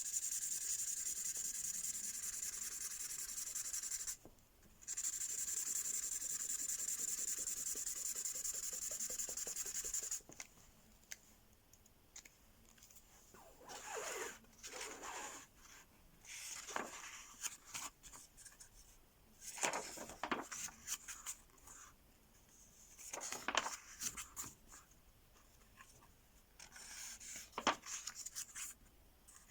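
Mystery Ink pen colouring on paper, scribbling back and forth without a stop for about ten seconds, with one short break about four seconds in. Then come scattered shorter scratching strokes and rubs with quiet gaps between them.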